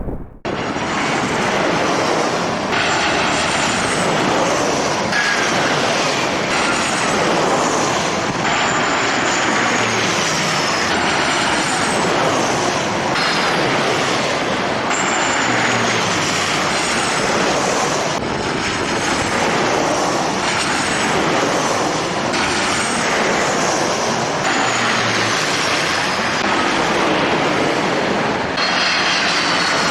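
Jet airliner engines running with a steady loud rush, and high whines that fall in pitch recurring every couple of seconds.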